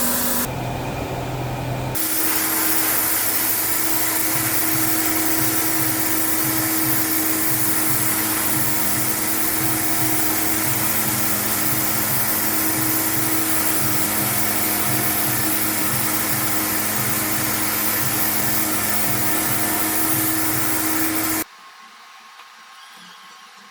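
Steady loud hiss of a workshop machine or air tool running, with a steady hum and a low pulsing underneath. It cuts off abruptly about 21 seconds in, leaving a faint background.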